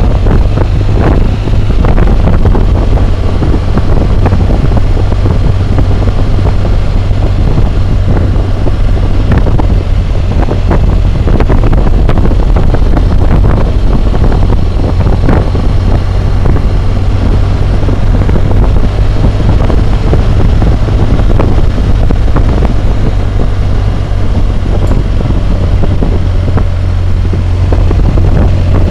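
Loud, steady wind roar on a helmet-mounted camera's microphone while riding a BMW motorcycle at road speed, with the motorcycle's engine running as a low hum underneath.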